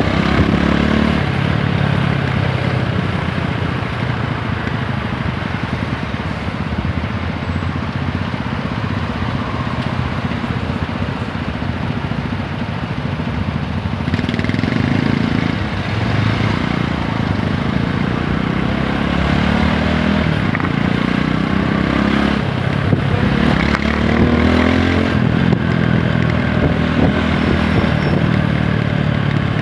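TVS Apache 160 4V's single-cylinder engine running on the move. It pulls up through the revs near the start, again around fifteen seconds in and again around twenty-three seconds, with steadier cruising between.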